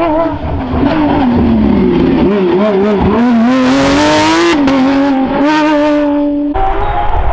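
Porsche rally car engine at full throttle on a stage: the note falls as the car slows, then climbs again through gear changes as it accelerates, with a loud hiss through the middle. About six and a half seconds in it cuts abruptly to another engine note.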